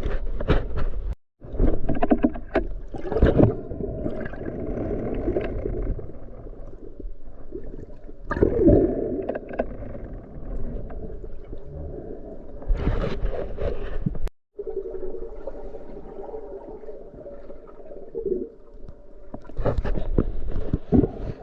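Muffled, uneven water sounds, sloshing and gurgling, with scattered sharper splashes. The sound cuts out to silence twice, briefly.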